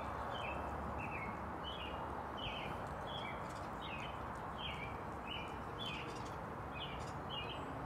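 A small bird chirping over and over, short calls that drop in pitch, about two a second, over a steady background noise.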